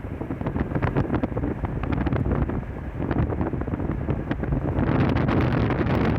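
Wind buffeting the microphone: a loud, uneven rumble with rapid crackling gusts.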